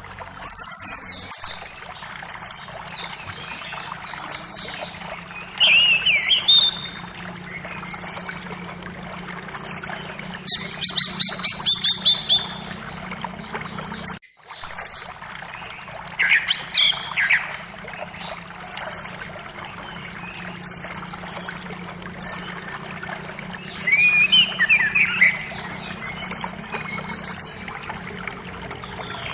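Forest birdsong over the steady rush of a creek: one bird repeats a short, high call about every one and a half to two seconds, while other birds call now and then with falling notes. All sound drops out for a split second about halfway through.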